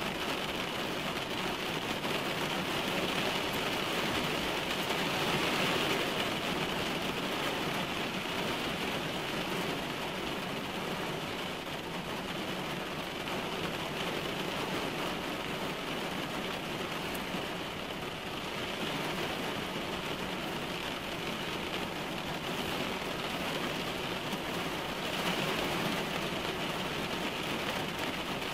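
Heavy rain falling on a car's roof and windshield, heard from inside the cabin: a dense, steady patter that swells slightly about five seconds in and again near the end.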